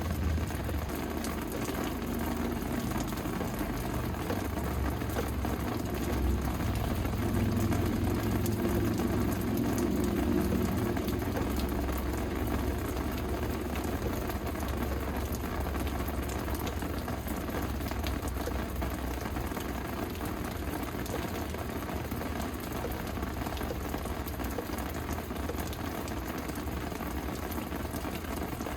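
Steady rain falling, with a dense patter of small drop ticks. A low rumble sits underneath, strongest in the first dozen seconds, then easing off.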